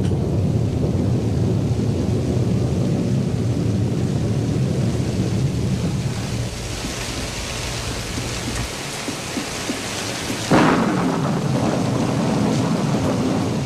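Thunderstorm: low rolling thunder over steady rain, then the rain hiss grows heavier. A sudden sharp thunderclap comes about ten seconds in.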